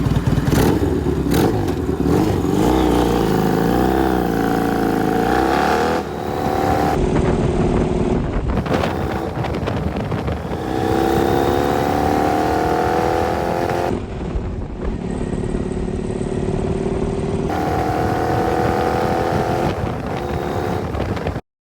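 Motorcycle engine running and being revved, its pitch wavering, then rising in long sweeps twice with breaks between, like a bike pulling away up through the gears. The sound cuts off suddenly near the end.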